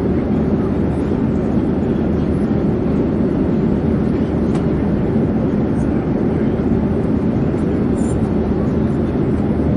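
Airplane in flight: a steady, even low drone of engine and air noise that neither rises nor falls.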